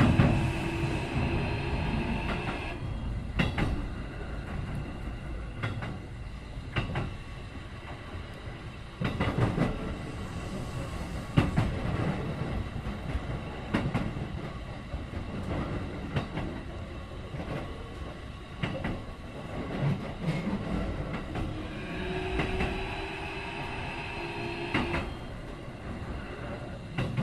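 Keikyu 1500 series electric train with Mitsubishi IGBT-VVVF traction gear, heard from inside a motor car: inverter and traction-motor tones for the first few seconds, then cutting off, leaving the rumble of the running train and wheels clacking over rail joints. The motor tones return about 22 seconds in, rising slightly in pitch, before stopping again.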